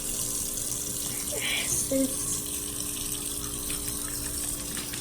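Water running steadily from a tap into a humidifier's water tank as it fills.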